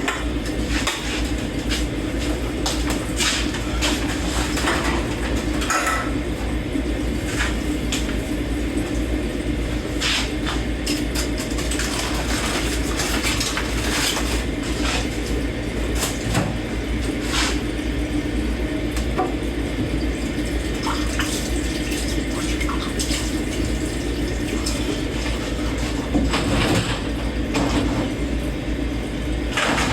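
Dishes being washed by hand in a kitchen sink under a running tap: a steady rush of water with frequent clinks and knocks of plates and cutlery.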